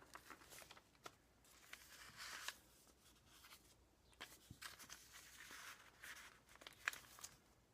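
Faint rustling of paper as the pages of a handmade journal are handled and turned, with a few light ticks.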